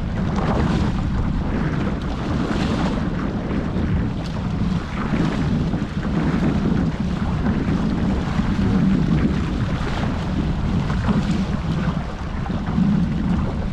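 Gusty wind buffeting the microphone, with water rushing and splashing against the hulls of a Hobie 14 catamaran under sail.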